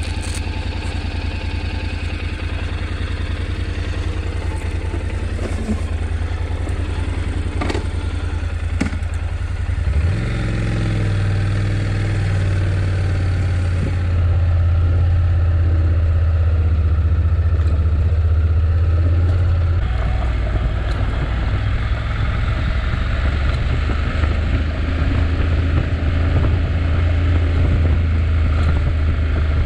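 Honda NC750X's parallel-twin engine idling, with a few light clicks, then pulling away about ten seconds in and running up through the gears, the engine note stepping at about fourteen and twenty seconds.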